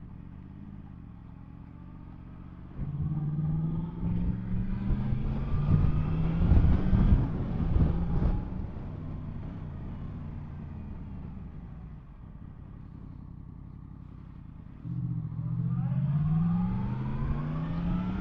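Yamaha MT-10 SP's inline-four engine ticking over at low revs, then pulling away with revs rising about three seconds in. It eases back to a quieter cruise and accelerates again near the end.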